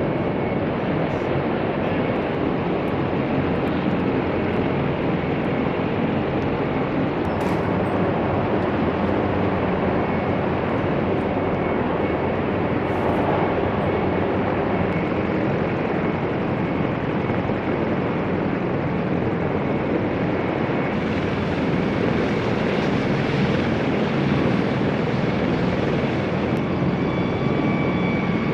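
CH-53E Super Stallion heavy-lift helicopter running, a loud steady rotor and turbine noise with a faint high whine.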